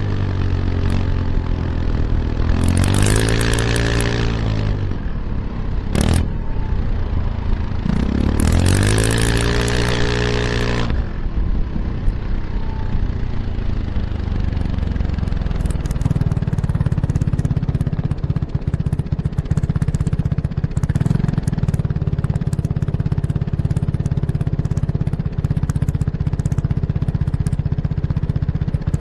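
Kymco X-Town scooter's Arrow Urban exhaust, with its dB killer installed, heard close up while riding. It picks up speed twice in the first half, each time rising then falling in pitch, with a sharp click between the two. It then settles into a steady drone at cruising speed.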